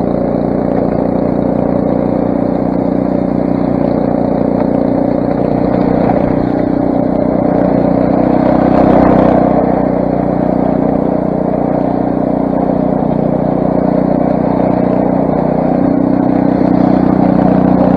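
Craftsman snowblower's 6 hp Briggs & Stratton engine running steadily under load, swelling briefly about nine seconds in.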